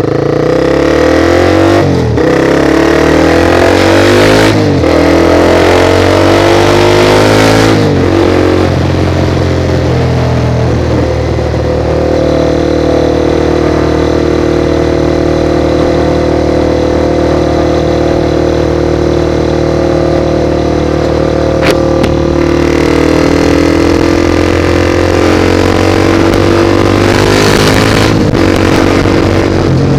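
Motorcycle engine accelerating up through the gears, with quick gear changes about 2, 4.5 and 8 seconds in, then cruising at a steady pitch before easing off and pulling again near the end. A broad rush of noise joins it shortly before the end.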